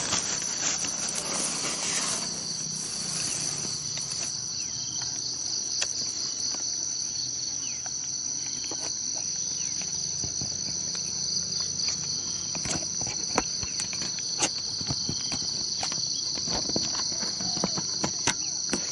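Steady high-pitched insect chorus, crickets or similar, with a fine pulsing texture, and scattered sharp clicks and taps over it.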